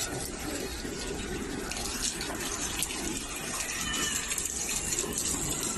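Floodwater rushing, a steady wash of moving water.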